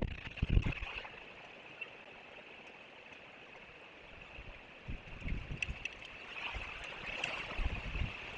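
Strong wind buffeting the microphone in gusts, easing off about a second in and gusting again from about halfway, over a steady faint high hiss.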